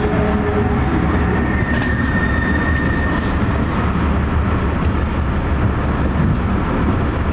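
Amtrak Hiawatha passenger train rolling on the rails, a steady rumble of wheels and running gear heard from inside the coach, with a faint high squeal about two seconds in.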